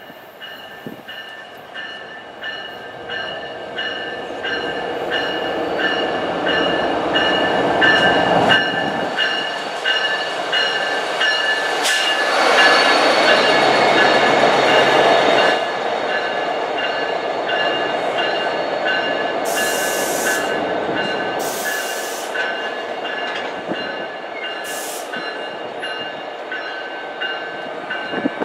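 New Jersey Transit locomotive and Multilevel coaches rolling past a station platform, growing louder as the train approaches and loudest as the locomotive passes about halfway through. The locomotive's bell rings steadily about twice a second throughout, and a few short hisses of air come near the end.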